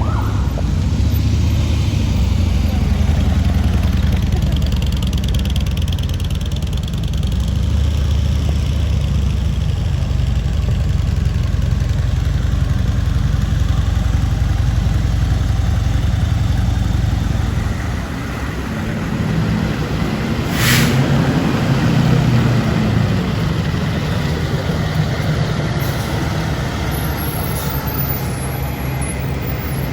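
Street traffic with a steady low engine rumble from passing vehicles, easing a little over halfway through, and a brief hiss about two-thirds of the way in.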